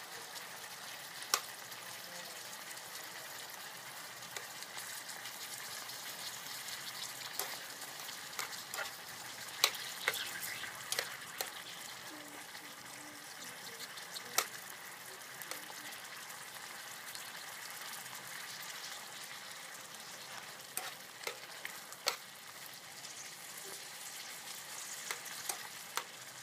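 Beef slices with egg and onion sizzling in a frying pan while being stirred, with a metal fork clicking and scraping against the pan now and then.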